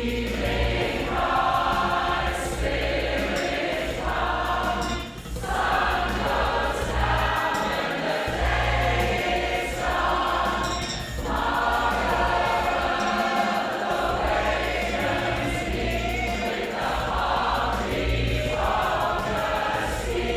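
Women's choir singing live, sustained chords sung in phrases a few seconds long with short breaks between them.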